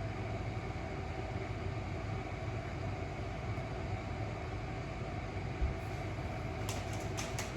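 Steady hum and rush of air from a running ventilation unit, with a few light clicks near the end.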